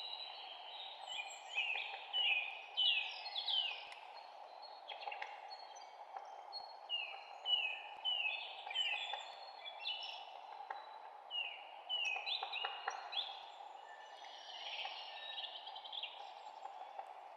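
Songbirds chirping: many short, quick downward-sweeping chirps, some overlapping, over a steady background noise.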